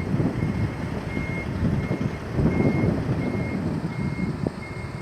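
A truck's reversing alarm beeping a single steady tone at an even pace, about one and a half beeps a second, over the low rumble of the truck engine as the tractor-trailer backs up.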